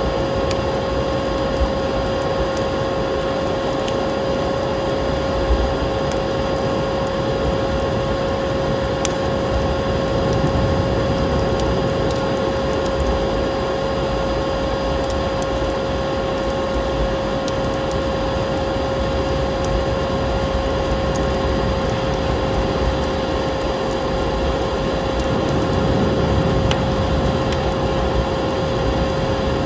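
Wood fire crackling in a fireplace, with scattered sharp pops over a steady rushing noise. A constant, even hum runs underneath.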